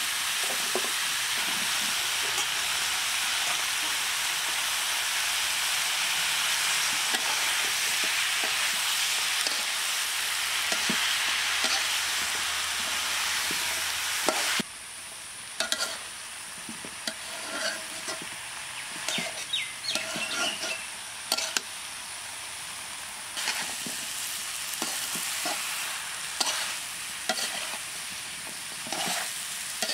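Chopped amaranth greens and pumpkin sizzling in hot oil in a black wok, a loud steady hiss. About halfway through it drops suddenly to a softer sizzle broken by the clicks and scrapes of a metal spatula stirring against the pan.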